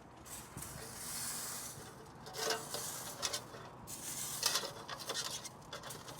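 Scratching and rustling of litter being picked up and scraped off the ground, with a high hiss about a second in and several clusters of short scrapes after it.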